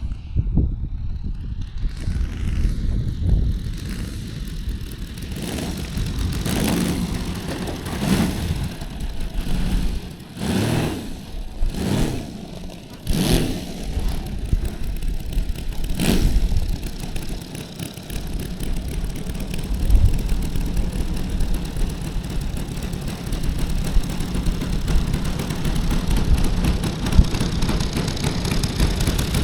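Saito FG-60R3 three-cylinder four-stroke radial petrol engine of a quarter-scale RC Sopwith Pup running. Its sound swells and fades several times in the middle, then settles into a steady run.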